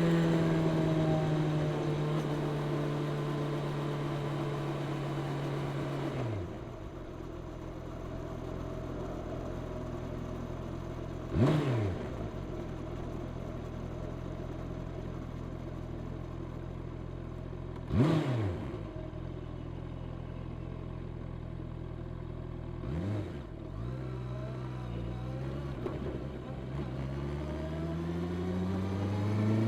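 Honda CB650R's 649 cc inline-four engine on its stock exhaust while riding: the engine note drops as the bike slows off the throttle, holds a steady cruise, then climbs again as it accelerates near the end. Two oncoming vehicles rush past in brief loud sweeps about halfway through, with a fainter one a few seconds later.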